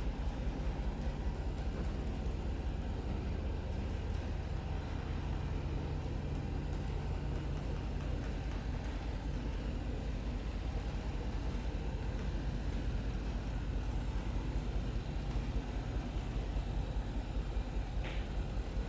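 Supercharged 5.0-litre V8 of a Range Rover Sport SVR idling steadily after a cold start, a low even hum.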